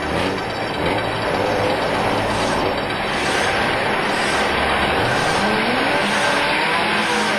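Car engine revving hard during a burnout, its pitch climbing about five seconds in.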